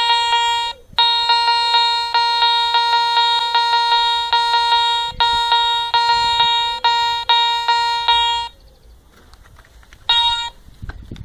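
Garrett Ace 200i metal detector sounding its mid-pitched target tone as the coil passes over a gold ring: a steady beep broken into rapid repeated pulses for about eight seconds, then one short beep near the end.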